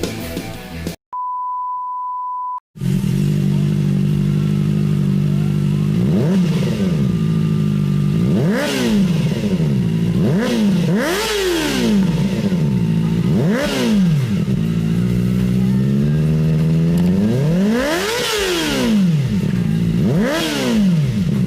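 Kawasaki ZX-25R's 250 cc inline-four with an Arrow aftermarket exhaust idling, then revved about seven times, each rev rising and falling quickly. A steady beep sounds for about a second and a half just before the engine comes in.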